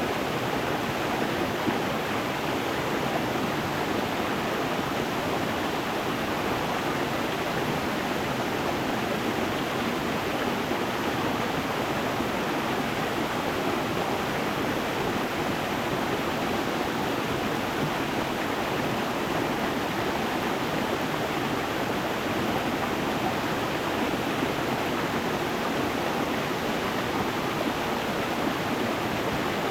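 Stream water running steadily over stones: an even, unbroken rushing.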